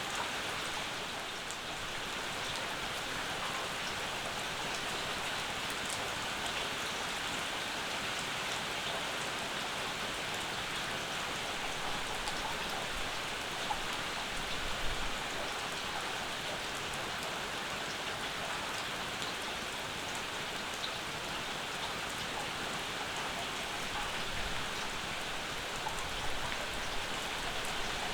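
Steady rain falling, with a few louder drops or drips standing out now and then.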